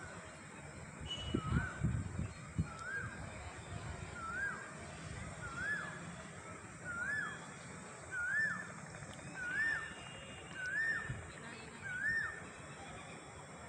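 A bird calling over and over, a short whistled note that rises and drops back, about once every second and a bit, each note slightly higher and louder than the last. A few dull low thumps come about one to three seconds in.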